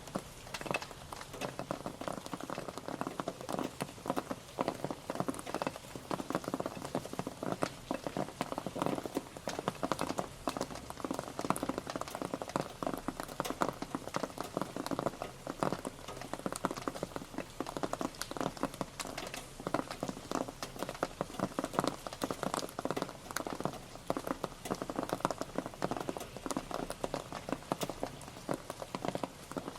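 Rain pattering steadily on a surface: a dense, even stream of individual drop ticks with no let-up.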